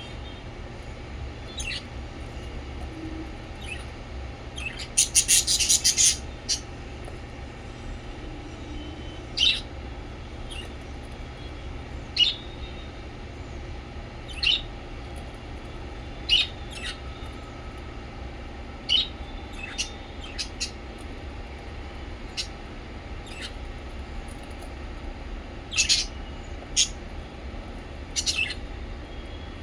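Small pet parrots chirping in short sharp calls every second or two, with a rapid run of loud chirps about five seconds in. A steady low hum runs underneath.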